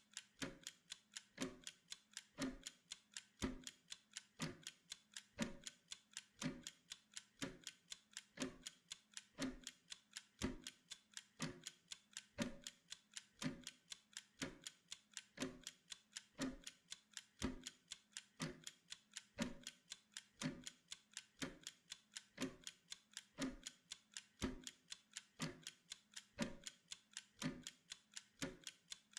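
Clock ticking steadily in an even, unbroken rhythm.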